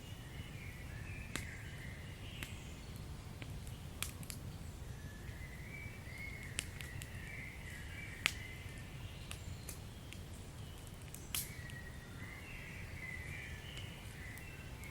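Wood fire crackling: scattered sharp pops, the loudest about eight seconds in, over a low steady rumble.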